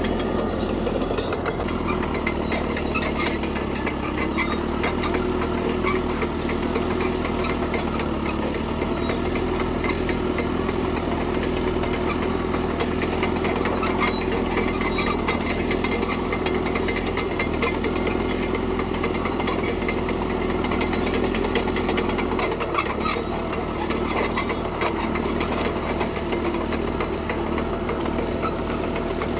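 CAT D3K crawler bulldozer working: its diesel engine runs steadily under load, with scattered clicks and clanks from the steel tracks and gravel. A little over 20 seconds in, the engine note drops.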